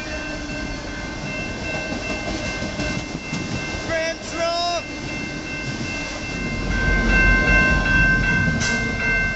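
Autorack freight train rolling past, its cars' wheels rumbling on the rails, with a steady high-pitched squeal over the top. The low rumble grows louder about seven seconds in.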